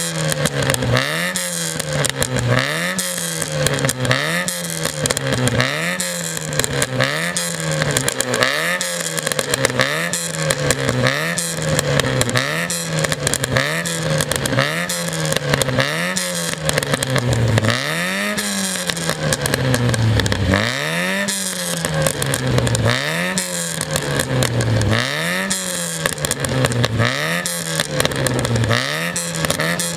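Yugo 55's four-cylinder engine revved again and again, its pitch rising and falling about once a second, with exhaust pops and crackles.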